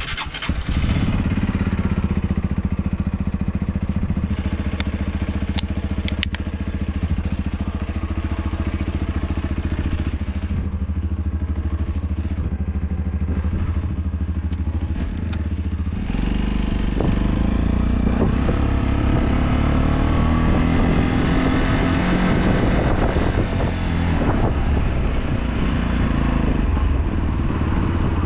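Motorcycle engine starting about half a second in and idling steadily, then, about 16 seconds in, pulling away and riding, its pitch rising and falling with the throttle and gear changes.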